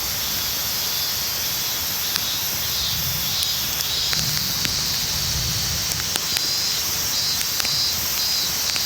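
Outdoor campsite ambience: a steady rushing hiss with scattered sharp clicks, and a broken high chirping that comes in about four seconds in.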